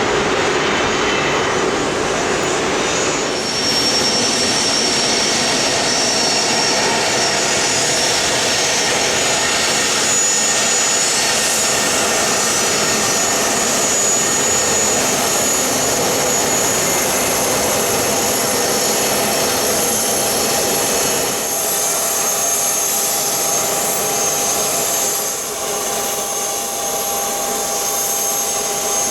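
Cessna Citation Sovereign business jet landing: its twin turbofan engines give a loud, steady rush with a high whine, easing off a little near the end.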